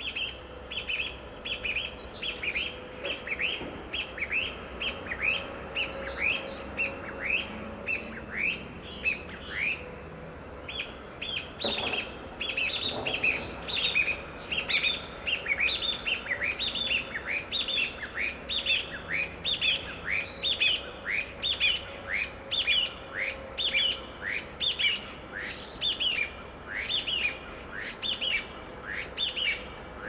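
Wild birds calling in a busy chorus of short chirps, each sweeping downward in pitch, about two a second, growing busier about halfway through.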